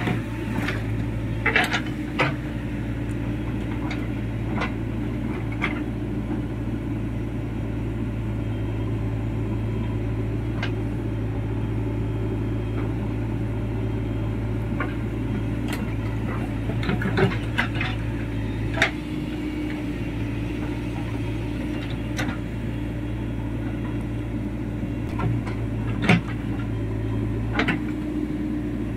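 Diesel engine of a JCB 3DX backhoe loader running steadily at work, with sharp metallic clanks and knocks every few seconds from the working machinery. Its low tone shifts slightly a little past halfway.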